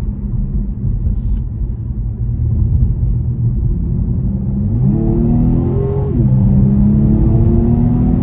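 BMW M135i's 2.0-litre turbocharged four-cylinder engine out on the road: a steady low rumble, then a little past halfway the revs climb sharply. They drop back at a gear change and rise steadily again as the car keeps accelerating.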